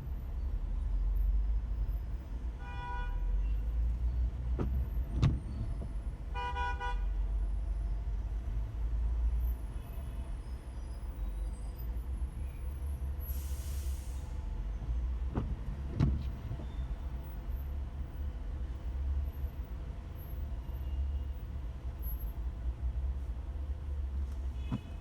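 Steady low rumble of a car's engine and road noise inside the cabin in slow traffic, with two short car-horn toots about 3 and 6.5 seconds in and a few light knocks scattered through.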